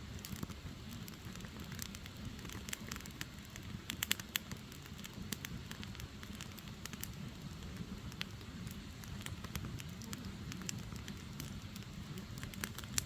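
Firewood logs burning, crackling with frequent sharp pops over a steady low rumble, with a quick run of pops about four seconds in.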